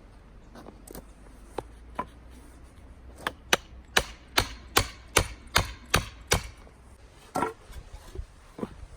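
Repeated sharp knocks of a hand tool striking, at first spaced out, then a quick run of about ten strokes at two or three a second, followed by two more single knocks near the end.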